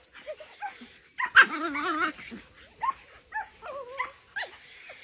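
A dog whining in a series of short calls with wavering pitch, the longest lasting about a second, followed by several shorter ones.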